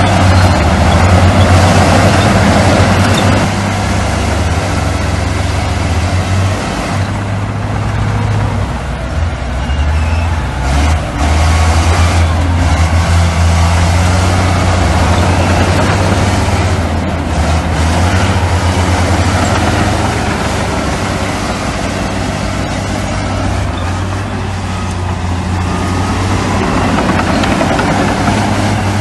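Heavy diesel earthmoving machinery running: a steady low engine drone with a rough, noisy top, its pitch shifting a little now and then.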